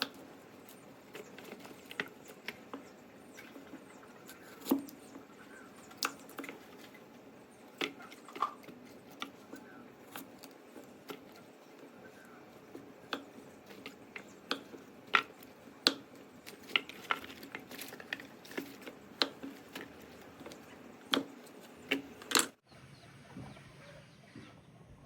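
Irregular sharp clicks and knocks, a few each second and uneven in strength, over a faint steady background hiss. The background changes abruptly near the end.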